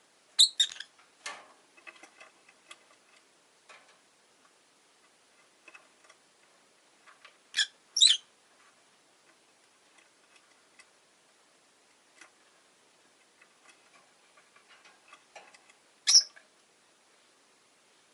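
Rosy-faced lovebird giving short, shrill chirps: a quick cluster just after the start, two about halfway, and one near the end, with faint light clicks and ticks between them.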